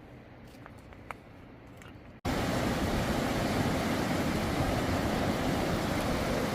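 A quiet stretch with a few faint clicks, then, about two seconds in, a sudden cut to a loud, steady rushing noise with no pitch or rhythm.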